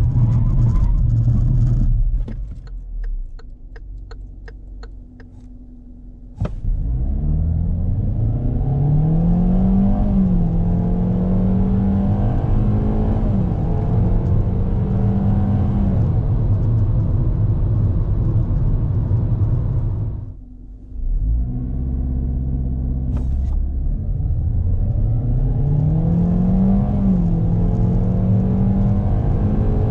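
Cabin sound of a 2020 Kia Seltos S's naturally aspirated 2.0-litre four-cylinder petrol engine with CVT auto accelerating hard, twice. After a quieter stretch with a few faint ticks, the revs climb quickly to a high drone and the CVT holds them there, with slight dips, while the speed rises. The sound drops briefly, then a second run climbs to the same held high-rev drone.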